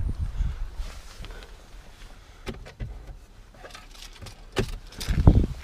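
Fetching the car key: a few sharp clicks and a jangle of keys, then a heavy thump near the end, with wind buffeting the microphone at the start.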